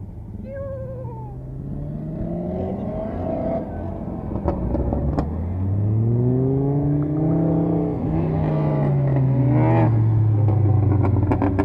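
A vehicle engine revving, its pitch climbing slowly to a peak about seven seconds in and then easing down again, with a few sharp pops or clicks over it.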